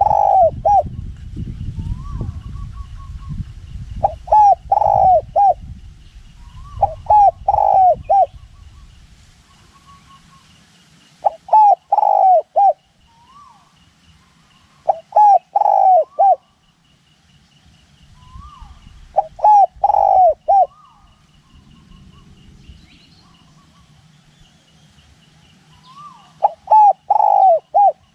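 Spotted dove cooing: a loud phrase of three or four notes, repeated seven times about every four seconds. Wind rumbles on the microphone through the first nine seconds or so and again briefly later.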